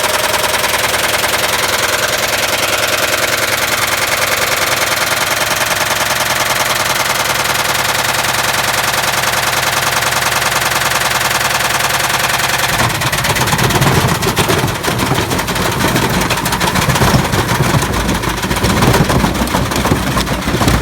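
Washing machine drum spinning with a brick inside, the brick hammering against the drum in a very fast, even rattle. About 13 seconds in, it turns abruptly into louder, irregular banging and clattering.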